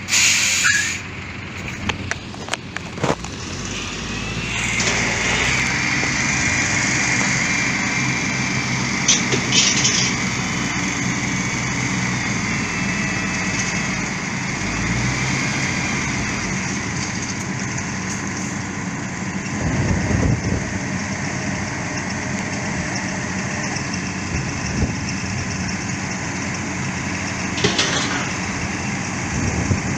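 Construction machinery running steadily, with a high whine over the engine noise and a few sharp knocks.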